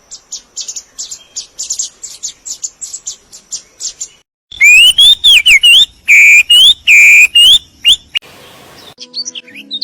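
Songbirds calling in a string of separate recordings. First a rapid series of high, thin chirps for about four seconds. Then, after a short gap, loud whistled notes that slide up and down, followed by a brief hiss and another bird's quicker chirping near the end.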